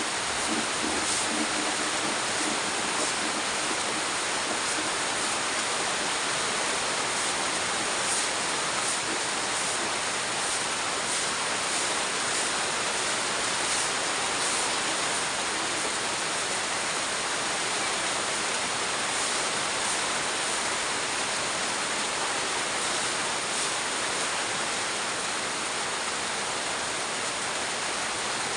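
Heavy rain pouring steadily: a dense, even hiss with scattered sharper drop impacts.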